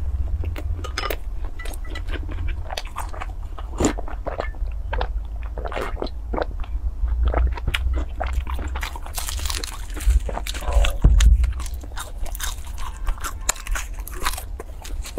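A person biting and chewing a crisp Chinese fried dough stick (youtiao), picked up close by a clip-on microphone: a run of sharp crunches and crackles, busiest about two-thirds of the way in.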